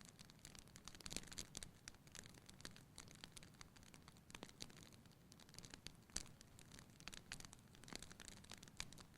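Wood fire burning in a fireplace, crackling quietly: irregular small pops and snaps over a soft hiss, with one louder pop about six seconds in.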